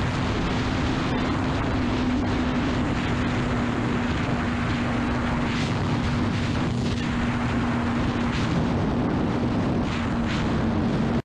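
Honda CBR600RR's inline-four engine running at a steady speed while riding, one even drone with wind rush over it.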